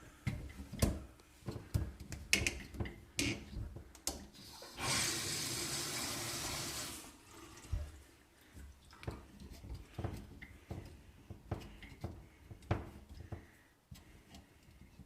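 Scattered clicks and knocks of hands working on a single-handle faucet, with water running from the tap for about two seconds, starting about five seconds in.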